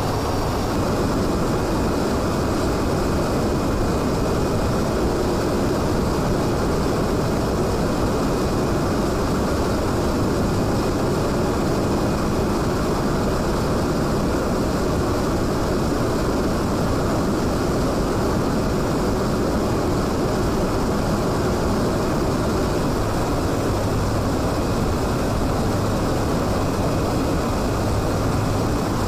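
Aircraft engine noise, a steady unbroken roar with a faint thin whine above it.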